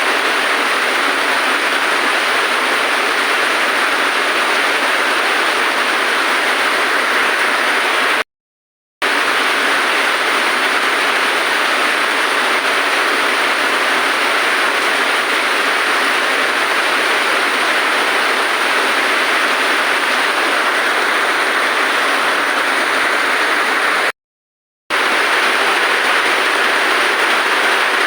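Steady heavy rain, a dense even hiss, that cuts to complete silence twice for under a second, about a third of the way in and near the end.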